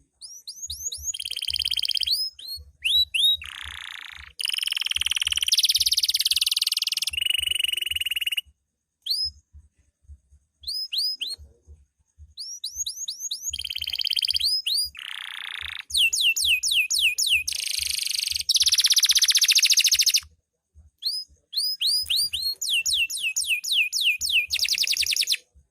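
Domestic canary singing an energetic song of rapid repeated chirps and fast rolling trills, in several long phrases separated by short pauses.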